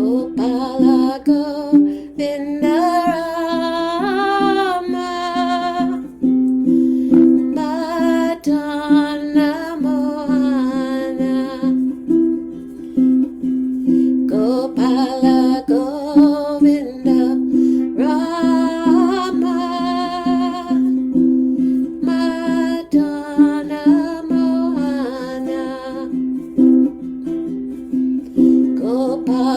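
Kirtan chanting: a voice sings mantra phrases in drawn-out melodic lines, about five phrases with short gaps between, over a steady, continuous instrumental accompaniment.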